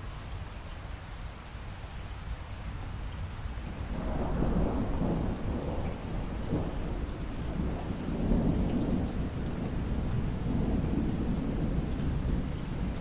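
Steady rain falling, with a long rolling rumble of thunder that builds about four seconds in, swells near the middle and goes on rumbling to the end.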